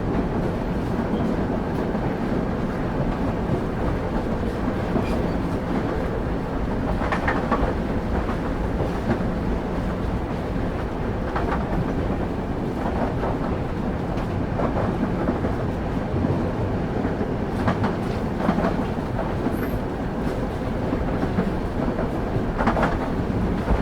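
Passenger train running on the rails, heard from on board: a steady low rolling rumble with occasional sharp clicks of the wheels passing over rail joints.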